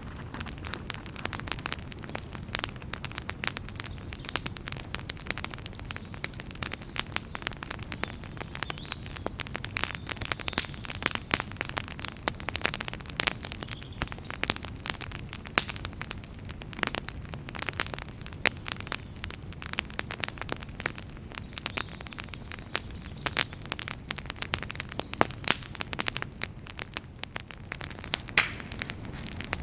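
Fireplace fire crackling: many irregular sharp pops and snaps, some louder than others, over a steady low rumble of burning.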